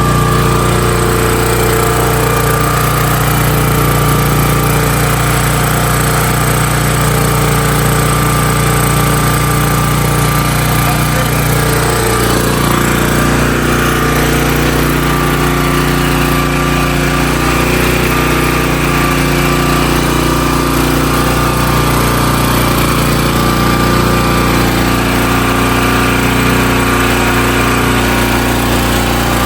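The 16-horsepower engine of a Hotsy pressure washer running steadily, its note shifting slightly about twelve seconds in.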